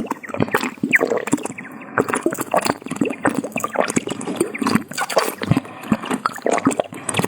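Close-miked ASMR drinking from a bottle: liquid gurgling and sloshing, with a quick irregular run of wet clicks.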